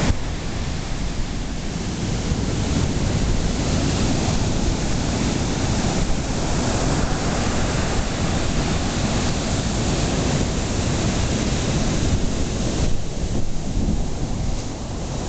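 Steady rush of ocean surf from a hurricane swell breaking, with wind on the microphone.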